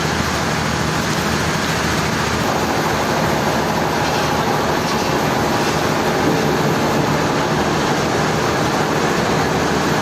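Steady running noise of sawmill machinery, even and unbroken.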